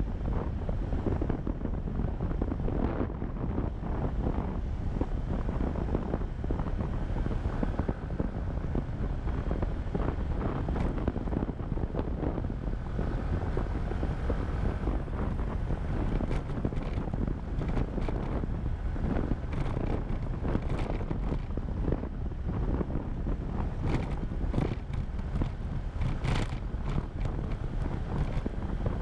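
Wind buffeting the microphone of a motorcycle rider's action camera, over the steady running of the motorbike, with short sharp crackles of wind from about halfway through.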